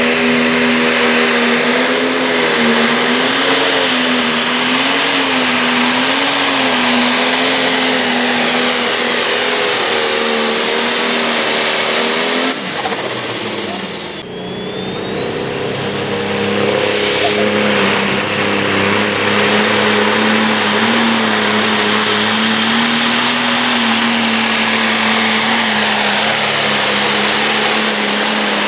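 Turbocharged diesel engine of a Light Pro Stock pulling tractor running hard under load, its pitch wavering as the revs rise and fall, with a high turbo whine over it. About halfway through the whine falls away and the sound dips briefly, then the whine climbs again as the engine comes back up.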